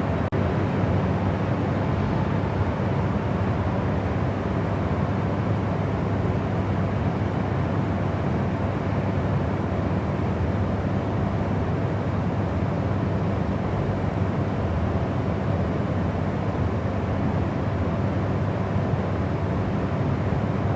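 Steady white-noise sleep sound: an even, unbroken rushing noise weighted toward the low end, with a deep rumble under a softer hiss. It dips very briefly just after the start, then runs on unchanged.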